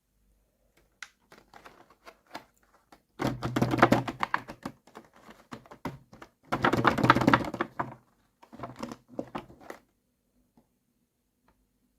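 Small plastic toy-kitchen pieces and their packaging being handled: scattered light clicks, then three bursts of rapid clicking and clattering, the first two the loudest.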